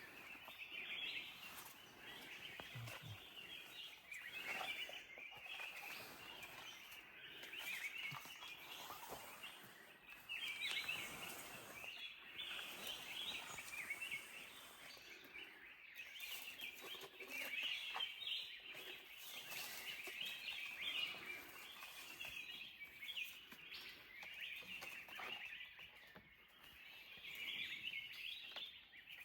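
Wild birds chirping and calling in a continuous faint chorus of high, rapid chirps.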